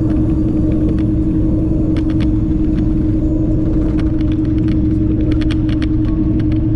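Semi truck's diesel engine and road noise heard from inside the cab while driving: a steady low drone with a constant hum, with scattered light clicks and rattles over it.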